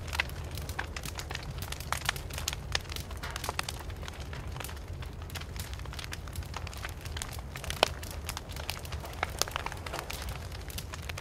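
Wood fire burning, crackling with irregular sharp pops and snaps over a steady low rumble of the flames; one louder pop about eight seconds in.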